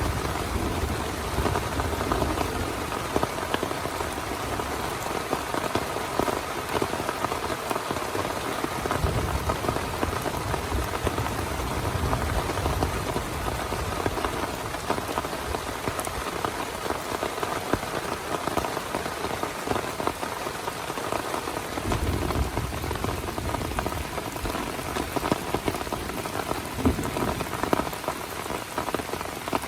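Heavy rain falling steadily, a dense patter with no let-up. A low rumble swells and fades a few times underneath.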